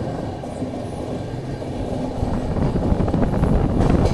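Double-decker express train running on the rails, heard from an open coach doorway: a steady rumble of wheels on track that grows louder about two and a half seconds in, with a few sharp clicks near the end.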